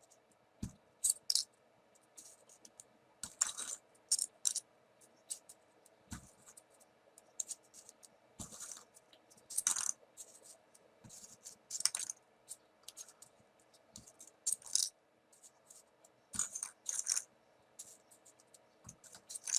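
Small folded paper pieces of a 3D origami model being handled and pushed into place: irregular light paper rustles, scratches and clicks.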